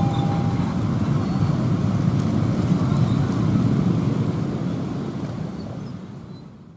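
Steady low rumble of passing vehicles, fading out over the last two seconds or so.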